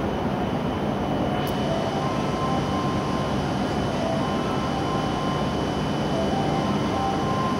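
Steady running hum of a stationary W7 series Shinkansen train in the station. About a second and a half in, a click is followed by a steady high-pitched warning tone with short electronic chime notes, as the platform screen doors close.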